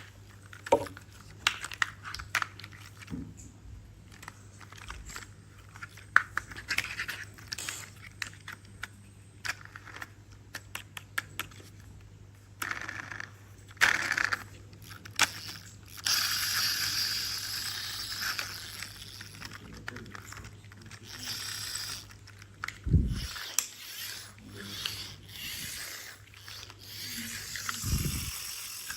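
Plastic toys being handled: scattered clicks and knocks with scraping. A longer stretch of scraping and rustling comes in the middle, and two dull thumps come near the end.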